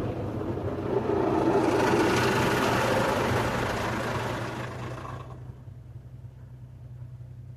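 Automatic car wash machinery: a loud hissing rush over a steady low hum, the rush cutting off suddenly about five seconds in.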